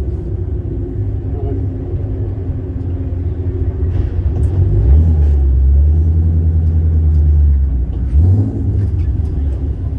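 Shelby GT350R's 5.2-litre flat-plane-crank V8 running at low revs as the car is driven slowly onto a trailer. Midway there is a louder, steady stretch under throttle, and a short blip of revs just after.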